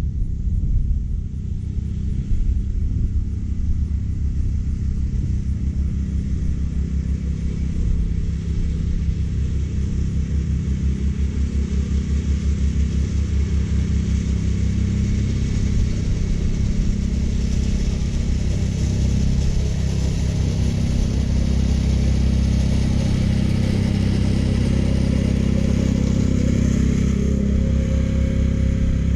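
California Trimmer gas-powered reel mower running steadily while cutting short Bermuda grass: the small engine's rapid firing under the hiss of the spinning reel blades, which grows louder about halfway through.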